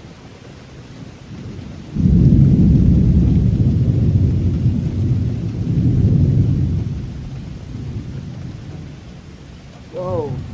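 A thunderclap about two seconds in: a sudden loud boom that rolls on as a low rumble for several seconds, then fades, over steady rain. Near the end, a brief pitched call-like sound.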